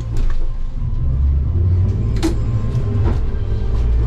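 Stabicraft 2250 boat running under way: a steady low engine and hull rumble, with a few sharp knocks, the loudest about two seconds in.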